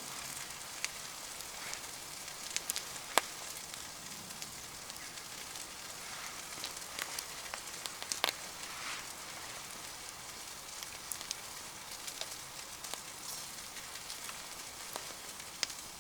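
Campfire crackling, with sharp pops here and there over a steady sizzling hiss of food cooking over the flames.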